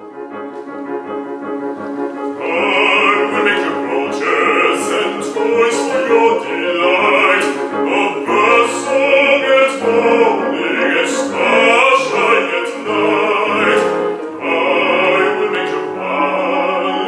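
Operatic bass voice singing a classical song over instrumental accompaniment. The accompaniment plays alone for about the first two seconds before the voice comes in.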